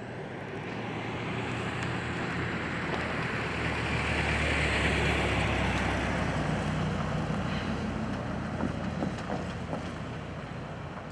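A road vehicle drives past, its engine hum and tyre noise swelling to a peak about five seconds in and then fading away.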